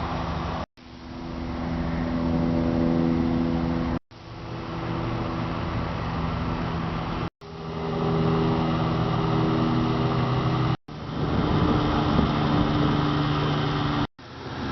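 Steady hum of a running vehicle engine with outdoor background noise, cut off abruptly to silence about every three and a half seconds and fading back in each time.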